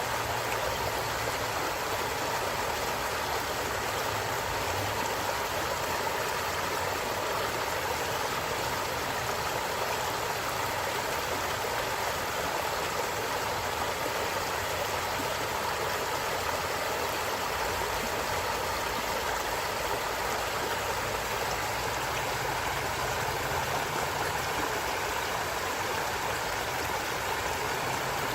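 A stream of running water flowing steadily, an even rushing and burbling with no breaks.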